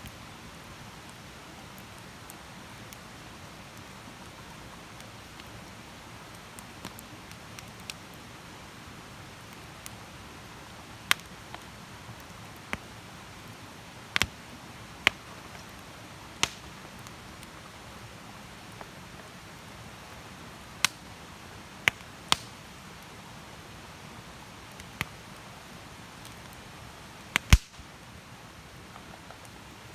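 Wood campfire burning with a soft steady hiss and sharp crackling pops at irregular intervals, the loudest pop near the end.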